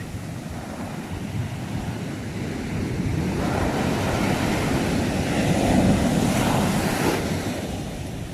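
Sea waves on a shore: the surf swells and a wave breaks about halfway through, its hiss washing back down after about seven seconds.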